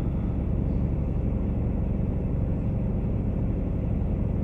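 Semi truck's diesel engine idling, a steady low rumble heard from inside the parked cab.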